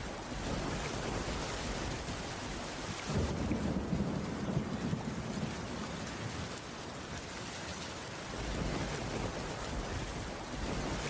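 Steady rain falling on a wooden cabin roof, with a low rumble that swells from about three seconds in and fades by about six.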